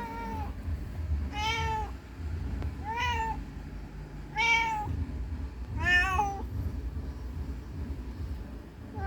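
Mother cat meowing, calling for her missing kitten: five drawn-out meows, each rising then falling, about one every second and a half, then a pause of a few seconds.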